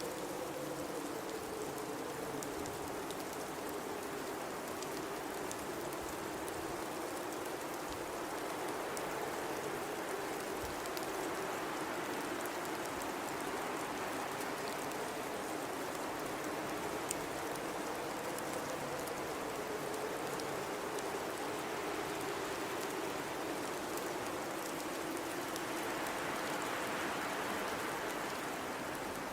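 Blizzard wind blowing steadily over a dense hiss, with a low moaning howl that slowly rises and falls in pitch. Scattered faint ticks sound through it.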